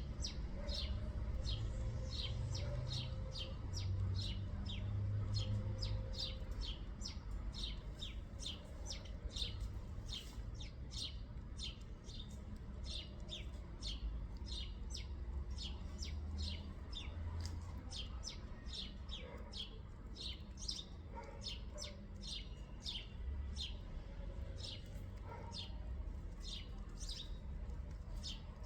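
Small birds chirping: short, high, falling chirps repeated about twice a second without a break, over a low rumble.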